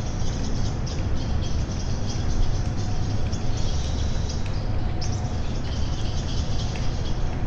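Many small birds chirping and twittering at once, their short high calls overlapping constantly, over a steady low rumble and an even hiss.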